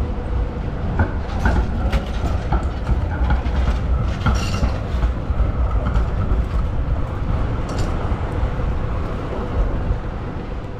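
Melbourne tram running along its rails: a steady low rumble with wheel clatter on the track and a brief high squeal about four seconds in.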